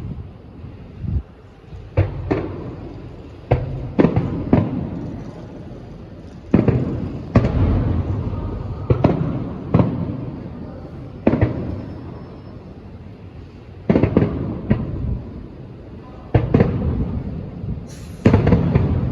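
Aerial fireworks bursting: a run of sharp bangs spaced a second or two apart, each followed by a deep rumble that dies away, with a tight cluster of bursts near the end.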